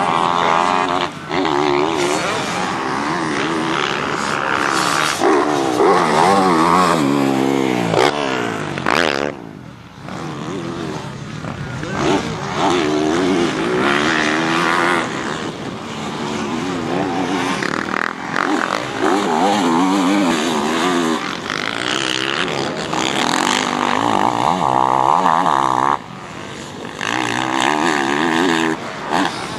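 Motocross bike engine revving up and falling off again and again as it is ridden round the track, dropping away briefly about ten seconds in.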